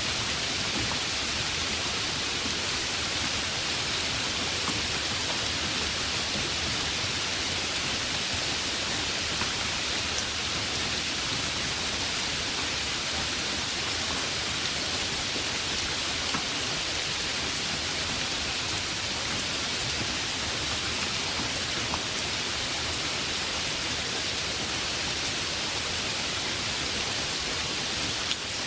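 Heavy rain falling steadily, a dense even hiss with occasional faint drop ticks.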